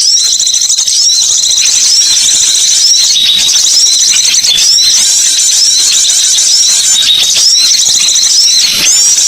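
Loud, dense chattering of small birds: high-pitched calls repeating without pause, as in a recording used to lure wild birds.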